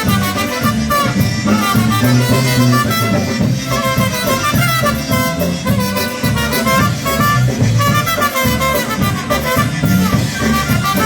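Live polka band playing an instrumental passage with no singing, a steady bass line under reed and horn melody.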